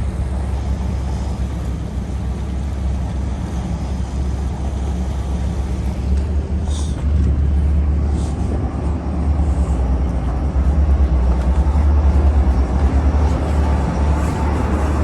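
A vehicle's engine rumbling steadily with a deep hum, growing somewhat louder about halfway through, with a few short clicks.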